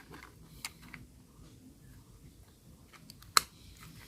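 Parts of a toy microbus being handled and fitted together by hand: a few faint clicks and taps, then one sharper click about three and a half seconds in.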